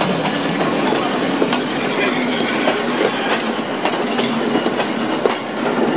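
A Sri Lanka Railways train rolling past at close range, a goods wagon then passenger coaches: steel wheels clicking and knocking over the rail joints, with a steady rumble of running gear and a few brief squeals.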